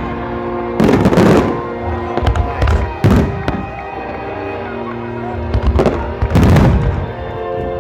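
Aerial fireworks going off: three big booms, about a second in, at three seconds and past six seconds, with smaller crackles between, over music with held notes.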